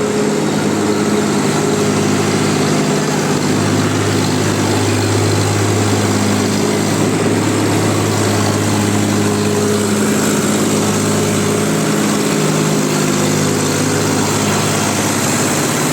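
Tractor diesel engine running steadily, a deep even drone with small shifts in pitch.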